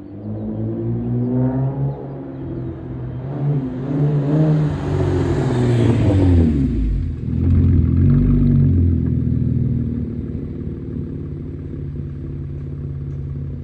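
Chevrolet Impala with a straight-piped exhaust (no catalytic converter, resonator or rear mufflers, only the mid muffler left) revving and driving past, loudest just past the middle, then running steadily near the end.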